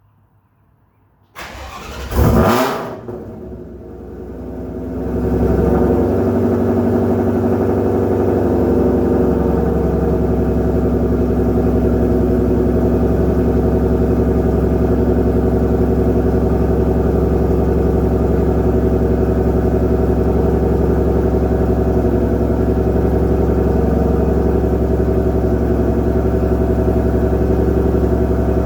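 Cold start of a 2020 Shelby GT500's supercharged 5.2-litre V8, fitted with a Whipple supercharger, ARH headers and a Borla exhaust. The starter cranks briefly about a second in, the engine catches with a loud flare, dips, then settles into a steady loud idle.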